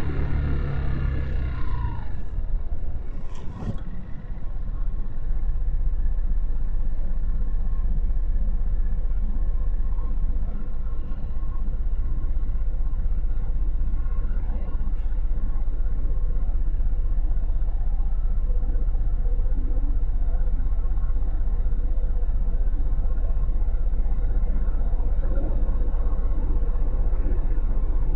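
Motorcycle engine with its revs falling over the first two seconds, then a steady low rumble, with a brief click a few seconds in.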